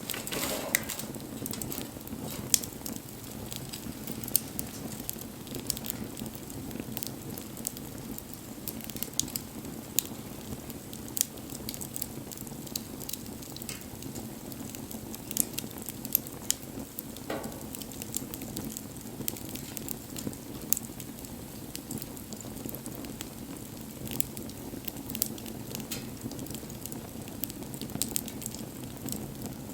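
Wood bonfire burning: a steady low rush of flames with frequent sharp crackles and pops from the burning wood, and a short hiss about seventeen seconds in.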